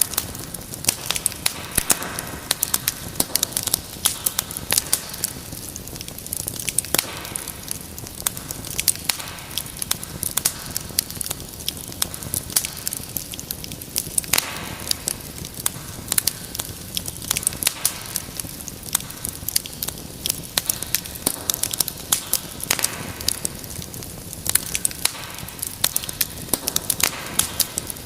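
Wood fire in a fireplace crackling steadily: dense irregular pops and snaps over a soft hiss of flames.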